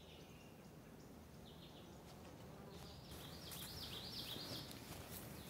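Quiet outdoor ambience with a bird chirping faintly: one short note about a second and a half in, then a quick run of rising-and-falling notes in the second half.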